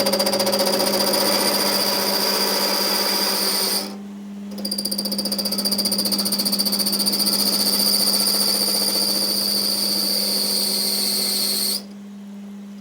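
A power tool running in long bursts with a fast pulsing rattle. It cuts out briefly about four seconds in and again near the end, while a steady machine hum carries on underneath.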